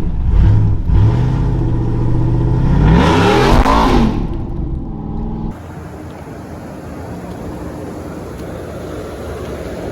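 GM LT V8 truck engine revving and accelerating loudly, its pitch rising and falling with a strong rev about three to four seconds in. About five and a half seconds in it gives way abruptly to a quieter, steady road noise.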